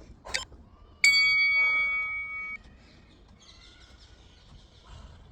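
A single bell-like chime from a workout interval timer, starting sharply about a second in and ringing out over about a second and a half, marking the end of an interval. A short sharp sound comes just before it.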